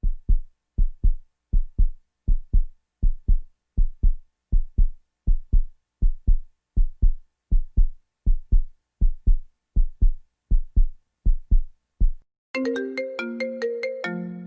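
Heartbeat sound effect: steady pairs of deep thumps (lub-dub), a little over one beat a second, stopping about twelve seconds in. Near the end an electronic phone-ringtone melody starts.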